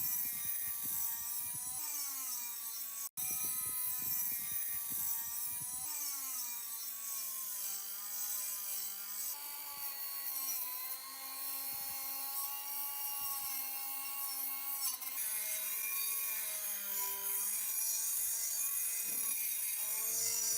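An electric power tool's motor whining, its pitch sagging and recovering as it is loaded. Over it is a steady hissing, scrubbing noise of the tool working against the part. The sound breaks off for an instant about three seconds in.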